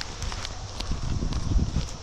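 Footsteps: irregular low thumps with light clicks.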